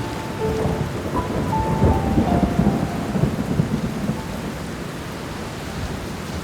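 Steady rain with a low rumble of thunder swelling about two seconds in and fading away a couple of seconds later. A few soft, slow piano notes sound over it in the first half.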